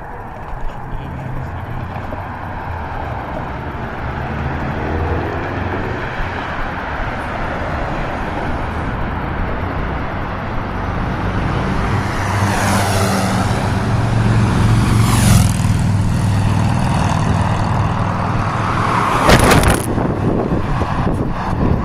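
Motor vehicle engine drawing closer and louder over road and wind noise, then a sudden loud rushing burst as it passes close, about nineteen seconds in.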